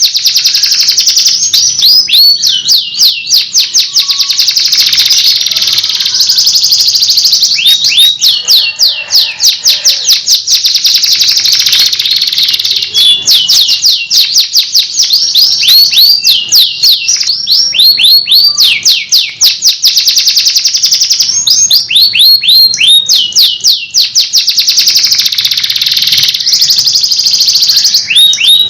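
Canary singing a long, loud song without a pause: fast trills of repeated high notes, the pattern changing every few seconds.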